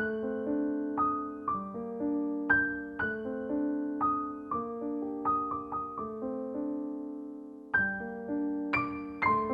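Gentle, slow solo piano background music, with notes struck and left to ring and one long held chord about six seconds in before the playing resumes.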